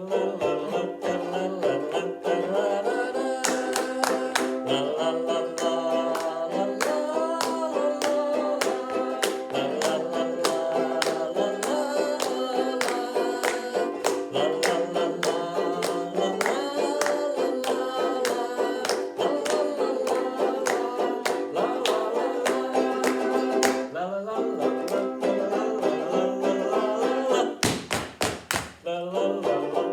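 Ukuleles strummed together, playing chords and a tune without words, with bursts of harder, quicker strokes near the start and again near the end.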